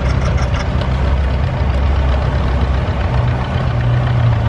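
A tractor engine idling steadily, a low even hum that grows a little stronger about three seconds in.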